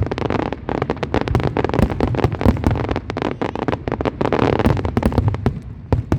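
Fireworks display: a rapid, dense barrage of bangs and crackles over a low rumble, thinning out near the end.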